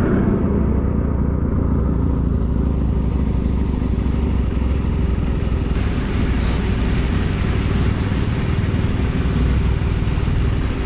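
Motorcycle engine running steadily at riding speed under a constant rush of wind and road noise; a brighter hiss joins about six seconds in.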